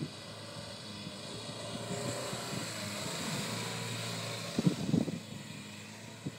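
Renault 4 4x4's small four-cylinder petrol engine running hard as the car drives across loose sand, growing louder as it passes close by. About two-thirds of the way in come several loud low thumps.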